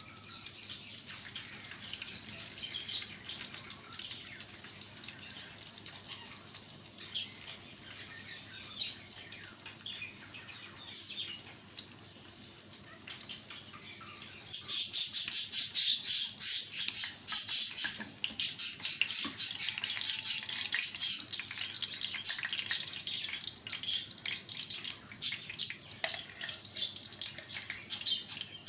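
Egg-dipped bread frying in hot oil in a pan, a steady sizzle full of fine crackles. About halfway through the sizzle suddenly gets much louder and denser for several seconds, then eases off a little.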